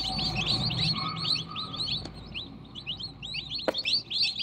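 A brood of newly hatched chicks peeping continuously, many short, high, downward-falling peeps overlapping one another. A single sharp click comes about three-quarters of the way through.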